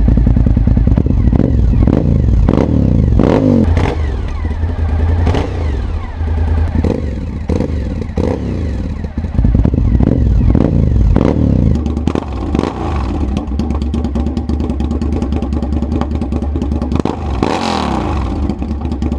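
Suzuki SV1000's V-twin engine running through an IXIL XOVS aftermarket exhaust, blipped with a run of quick throttle revs and then held steadier, with one more rev near the end.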